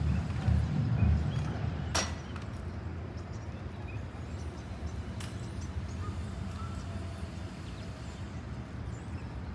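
Outdoor ambience: wind rumbling on the microphone, easing about two seconds in, with faint scattered chirps and two sharp clicks.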